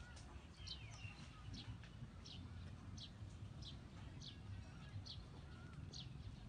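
A bird calling a short, high, slightly falling note over and over, about one note every second or a little faster, faint over a low steady rumble.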